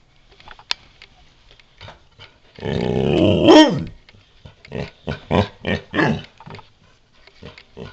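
Pet dog 'talking': one long, warbling moan that climbs and then drops off sharply, followed by a run of about five short grumbling vocal sounds.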